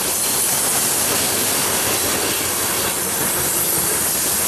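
Cars of a CP Rail coal train rolling past, a steady, loud rush of wheel-on-rail noise.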